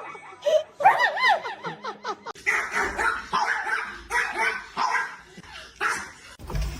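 Dogs barking repeatedly, about two barks a second, after a few short rising-and-falling yelps about a second in.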